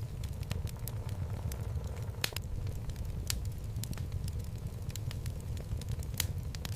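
Wood logs burning in a home fireplace: a steady low rumble of the flames with sharp crackles and pops at irregular moments, the loudest about two seconds in and another near the end.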